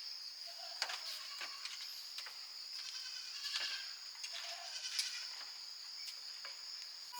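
A goat bleating over steady chirring of crickets, with a few sharp knocks.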